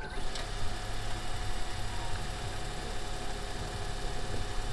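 A car engine idling steadily, a low rumble with a hiss over it.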